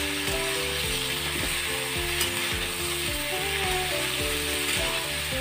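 Potato and pointed gourd chunks sizzling as they fry in hot oil in an aluminium kadai, stirred with a metal spatula. Background music with a simple melody plays throughout.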